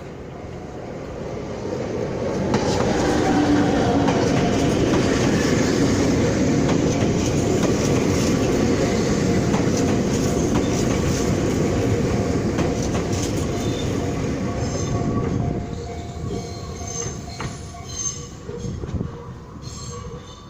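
Kobe Electric Railway 5000-series electric train approaching and passing over a level crossing, its wheels clattering over the rail joints. It builds over the first few seconds, stays loud for about twelve seconds, then fades as the train moves off. A steady warning tone from the level-crossing signal runs through the passage and stops a few seconds before the end.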